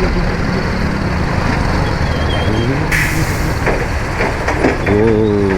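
Motorcycle ride in heavy traffic: the BMW G 310 GS's single-cylinder engine running over a rough, broken road among trucks and other vehicles, with engine notes rising about two seconds in and a short hiss about three seconds in.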